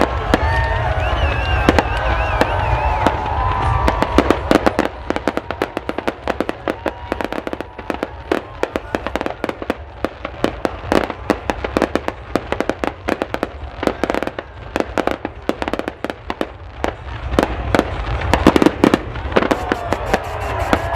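Fireworks crackling and popping in a rapid, dense barrage of many sharp pops a second. There are crowd voices and shouts in the first few seconds, over a steady low rumble.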